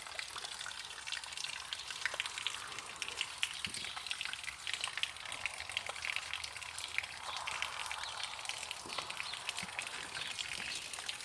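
Steady rain falling, with many small, sharp drop hits.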